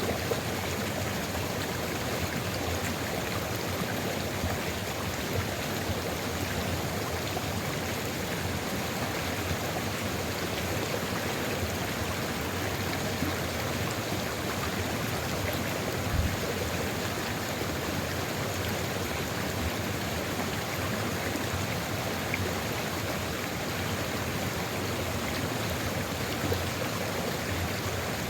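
Steady rushing of the sulfur river below Ijen crater, an even flowing-water sound with a few brief, slightly louder splashes.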